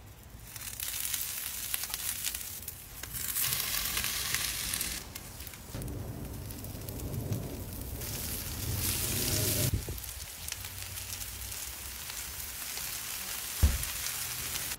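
Potatoes frying on a hot flat-top griddle, giving a steady sizzling hiss that swells louder twice. There is a single sharp thump near the end.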